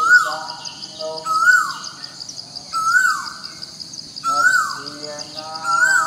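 Birdsong: a bird repeats a short whistled call that rises and then falls, five times at about one-and-a-half-second intervals, over a steady, high, pulsing trill.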